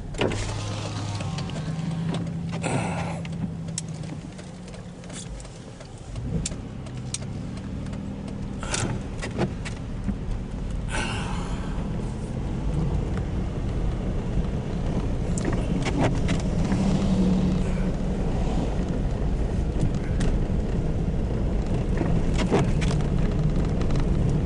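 Car running on snowy roads, heard from inside the cabin: a steady low engine hum and tyre noise with a few scattered clicks and short swishes. It dips briefly, then grows steadily louder from about six seconds in as the car gathers speed.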